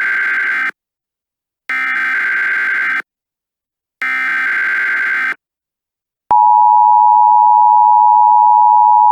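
Emergency Alert System alert opening: three identical buzzy header data bursts, each about a second long with a second of silence between, followed about six seconds in by the steady two-tone EAS attention signal.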